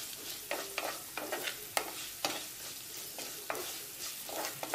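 Chopped onions sizzling in hot coconut oil in a terracotta clay pot, stirred with a wooden spatula that scrapes and knocks against the pot about twice a second.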